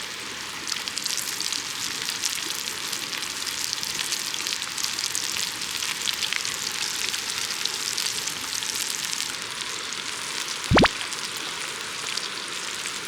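Food sizzling and crackling in hot oil in a frying pan over a wood fire, a steady hiss with fine pops. A single sharp knock about eleven seconds in.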